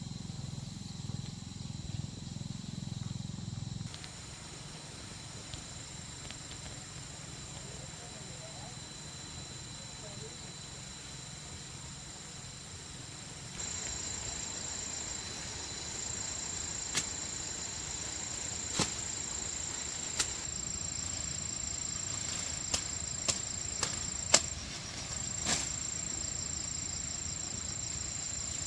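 Insects trilling steadily in high, thin tones, louder and pulsing from about halfway through. Several sharp clicks or knocks sound in the second half.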